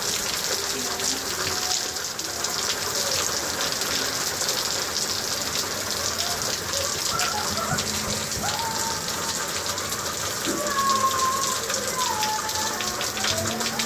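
Steady rain falling on a lawn and a wet concrete patio, a constant hiss full of close, individual drops ticking.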